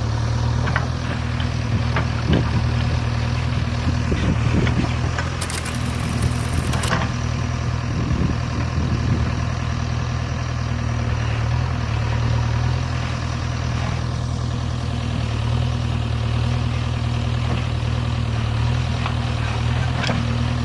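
Heavy vehicle's diesel engine idling steadily with a low hum, with scattered clicks and a brief high hiss about five seconds in.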